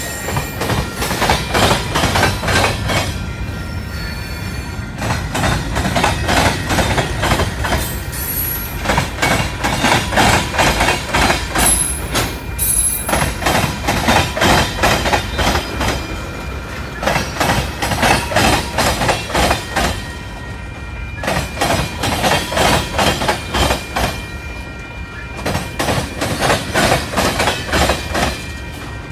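Freight train of tank cars rolling past, its wheels clacking over the rail joints in a quick, steady rhythm, with high-pitched wheel squeal now and then.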